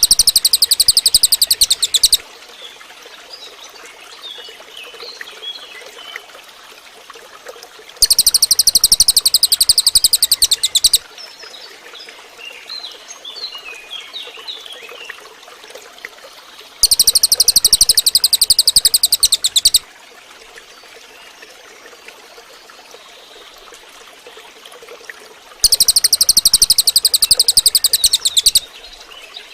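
Cililin bird singing a loud, very rapid high trill, about three seconds long, four times roughly nine seconds apart. Faint scattered chirps fill the gaps between the trills.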